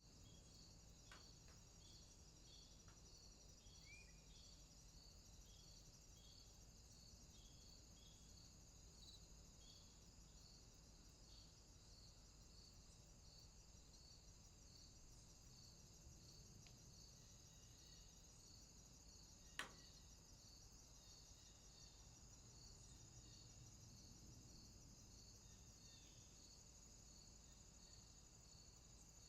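Faint chorus of night insects: a steady high-pitched buzz with a chirp pulsing about twice a second, a few short calls in the first few seconds, and a single sharp click about twenty seconds in.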